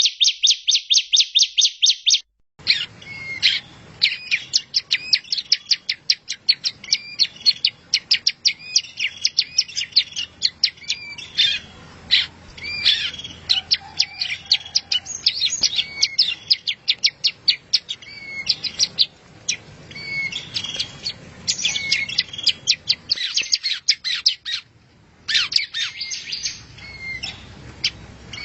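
Recorded songbird song played as masteran, a training song for caged contest birds. It opens with a rapid, even run of high chirps. After a break about two and a half seconds in, a different recording follows: varied fast chirps and trills over a faint low hum, pausing briefly near the end.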